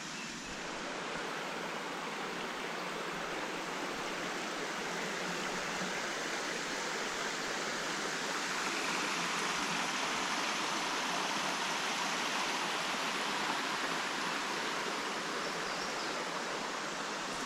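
Steady rush of a creek's water spilling over a rocky cascade, growing somewhat louder partway through.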